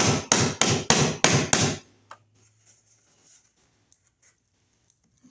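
Rapid series of taps, about three a second, seating a surface-mount outlet box onto its wire mold base; the tapping stops about two seconds in, followed by a few faint clicks.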